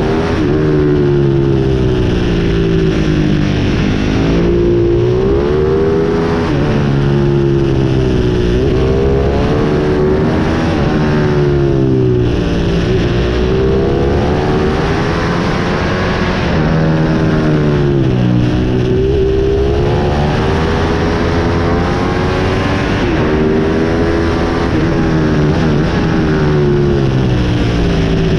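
Pit bike engine revving hard as it is ridden, the pitch climbing and then dropping back again and again, every two to three seconds.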